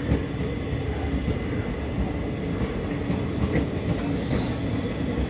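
Indian Railways passenger coaches rolling past: a steady rumble of steel wheels on the track, with scattered light knocks from the wheels and bogies.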